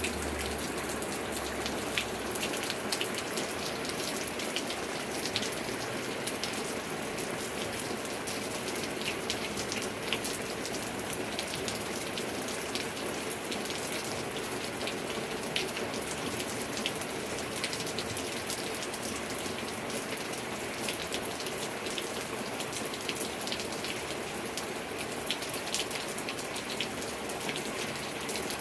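Steady rain falling, with many sharp drip and patter ticks of drops hitting a surface close by.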